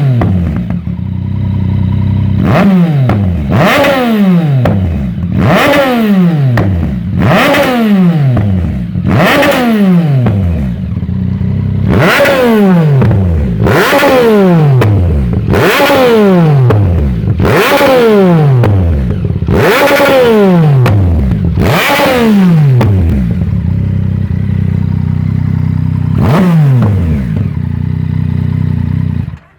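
Yamaha MT-09's three-cylinder engine through a Tiger Exhaust full decat system, idling and blipped about a dozen times, each rev rising sharply and falling back to idle, with a pause of idling before a last blip near the end; the sound cuts off just before the end.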